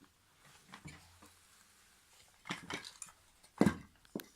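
Toy train track pieces clacking together as they are picked up and set down, a few scattered knocks with the loudest about three and a half seconds in.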